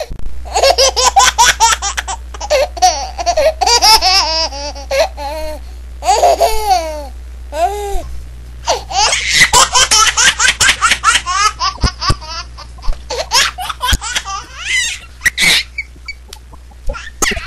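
A baby laughing in long runs of rapid, breathy laughs, with a short lull about halfway.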